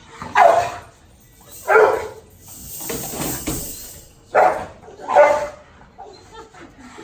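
A dog barking four times, the barks spaced irregularly a second or more apart.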